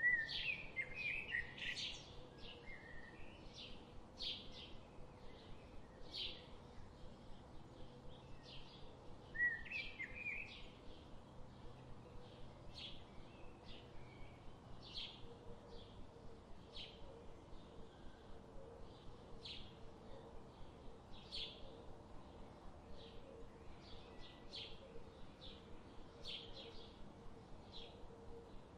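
Songbirds calling: a short, high chirp repeated steadily about once or twice a second, with a louder warbled phrase right at the start and another about nine and a half seconds in, over a faint steady background hiss.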